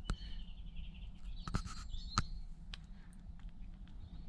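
Small garden songbirds chirping and twittering, with a short high trill in the first second, and a few sharp clicks, the loudest at the start and a little after two seconds.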